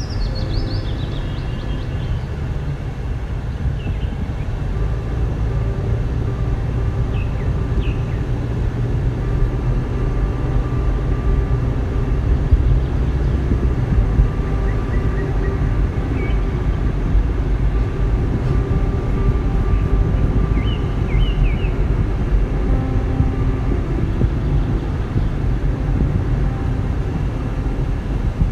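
Car driving along a road, heard from inside: a steady low rumble of tyres and engine, with a few short high chirps here and there.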